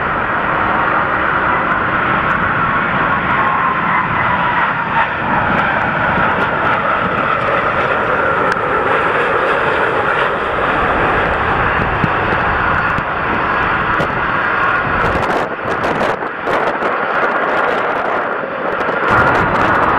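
Jet airliner engines passing close on a landing approach: a steady rushing noise with a whine that drifts down in pitch. A cluster of sharp knocks comes about three quarters of the way through.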